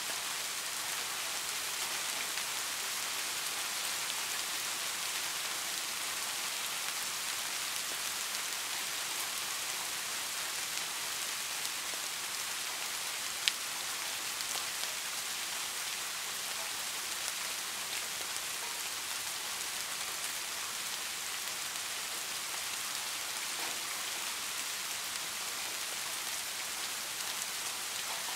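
Steady, even rainfall hissing, with a single sharp click about halfway through.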